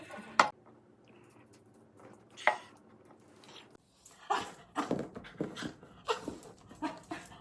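Small dog whining in a run of short, irregular whimpers starting about four seconds in, preceded by two sharp clicks about two seconds apart.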